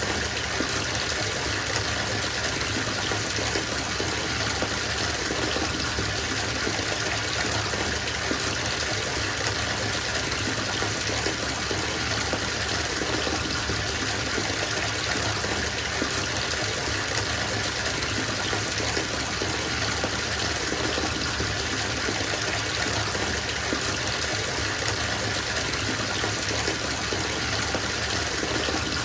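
Bathtub filling from the tap: a steady gush of running water splashing into the tub.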